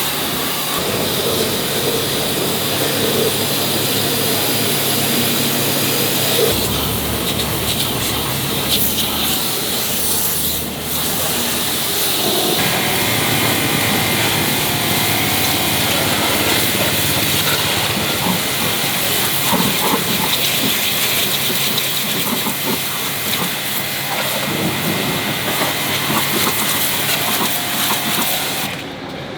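Loud, continuous hissing, rushing mechanical noise, changing abruptly a couple of times.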